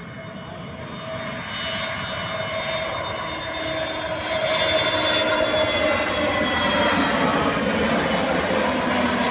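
Airbus A320 jet engines on a landing airliner, a rushing roar with a steady whine that grows steadily louder.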